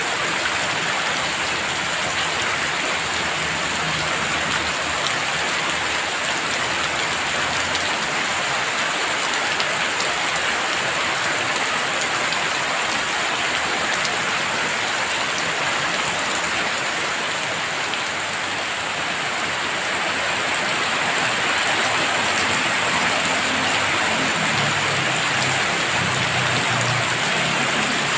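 Heavy rain falling steadily, a dense, even hiss of drops hitting surfaces, with a low rumble underneath near the start and again near the end.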